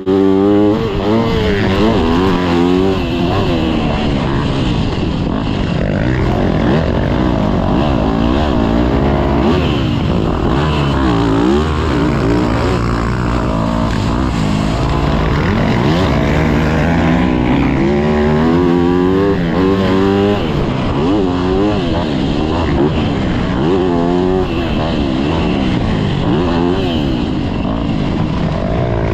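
Yamaha YZ250F four-stroke single-cylinder motocross bike engine being ridden hard, revving up and dropping back over and over as the rider works the throttle and gears.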